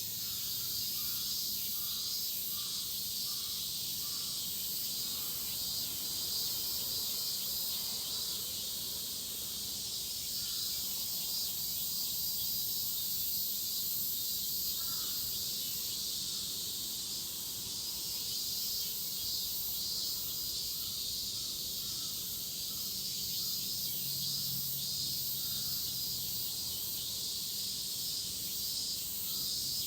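A dense chorus of cicadas, a steady high-pitched shrilling that swells and fades slightly but never stops.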